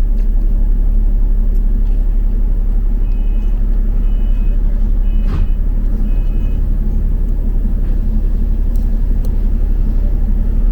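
Double-decker bus running, heard from inside as a steady low rumble. Near the middle come four short two-tone beeps about a second apart.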